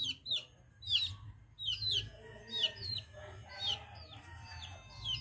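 Birds chirping: short high notes that each fall in pitch, mostly in quick pairs, a pair roughly every second.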